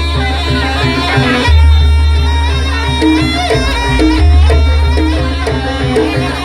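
Javanese jaranan ensemble music played loud: a deep low tone swells in about every two and a half seconds over steady drumming, with a wavering high melody on top.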